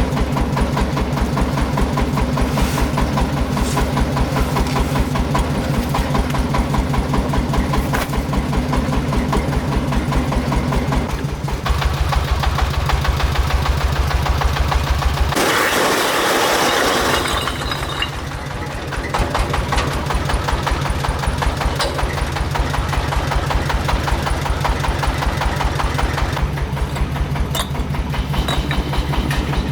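A small engine running steadily with a rapid, even beat. About fifteen seconds in, the low beat drops out for about two seconds under a hissing noise, then the engine beat returns.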